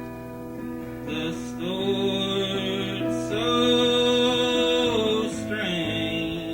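Acoustic guitar strummed, with a man's voice singing long drawn-out notes over it through the middle, stepping higher partway through.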